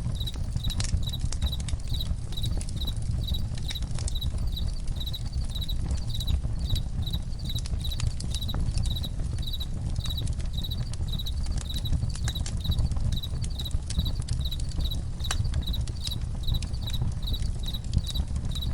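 Crickets chirping in a steady rhythm, a little over two chirps a second, over a crackling campfire with scattered sharp pops and a low steady rumble.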